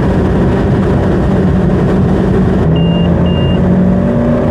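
Tow boat's engine running steadily at speed, its pitch edging up slightly in the second half. About three seconds in, two short high beeps sound.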